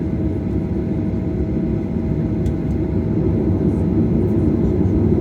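Airliner cabin noise inside a Boeing 737-800: a steady low rumble with a thin steady whine above it, growing slightly louder near the end.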